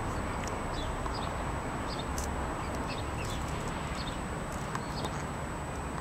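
Steady outdoor background noise with frequent short, high chirps of small birds scattered through it.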